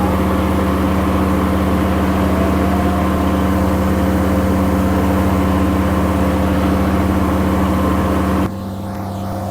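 Mini skid steer engines running steadily. About eight and a half seconds in, the sound drops abruptly to a quieter, lower engine note.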